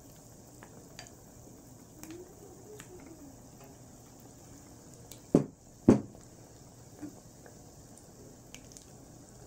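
Batter-coated egg pieces deep-frying in hot oil in a pot: a faint steady bubbling with scattered small pops. About five and a half seconds in come two sharp knocks half a second apart, the spoon striking the pot.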